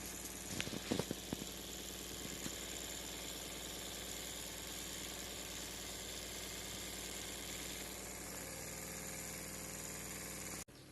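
Small DC motor running steadily, with a few sharp clicks about a second in.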